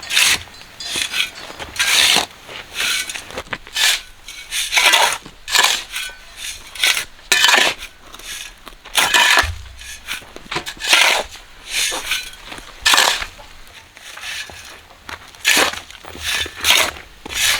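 Repeated gritty scraping and crunching strokes, irregular, about one or two a second, like a tool working rough material such as gravel or concrete mix.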